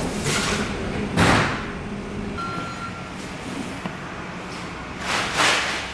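Workshop noise: short hissing bursts, the loudest about a second in and another near the end, over a low steady machine hum that cuts off about two seconds in.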